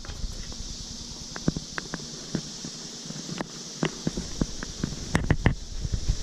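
Scattered clicks and knocks of a beehive being handled and its wooden frames worked with a hive tool, coming thicker about five seconds in, over a faint steady hum from the honeybee colony.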